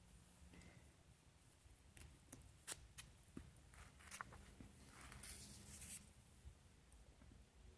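Faint handling of an old paper comic book: a few soft ticks and one brief papery swish as a page is turned, over near-silent room tone.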